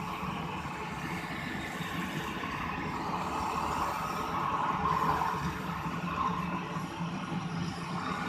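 Heavy diesel engine running steadily, getting a little louder for a moment about four to five seconds in.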